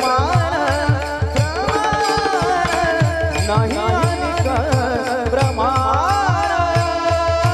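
Devotional kirtan music: a voice singing an abhang in long, gliding phrases over held drone notes and quick, steady hand-drum strokes.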